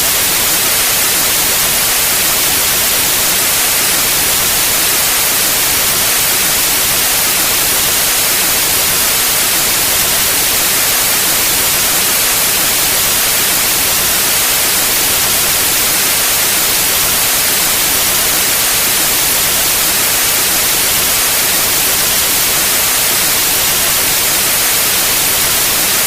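Steady white noise: an even, unchanging hiss spread across the whole range, brightest in the high end.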